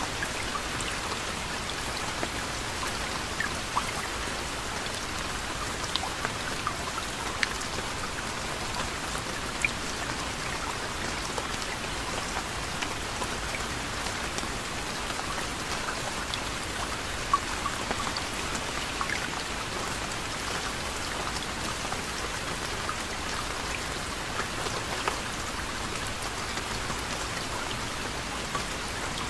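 Steady soft rain falling, an even hiss with scattered close drops pattering on a surface.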